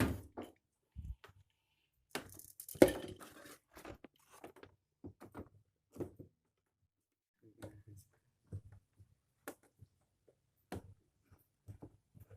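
Handling noise from work on a washing machine's motor and parts: scattered clicks, knocks and rustles, with a louder scraping rustle about three seconds in.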